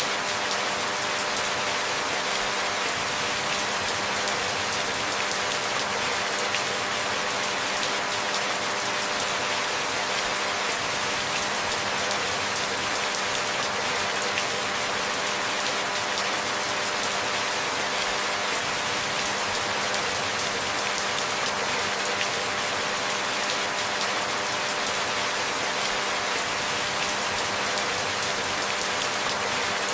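Steady rain falling, an even hiss of many drops that stays the same throughout, with no thunder.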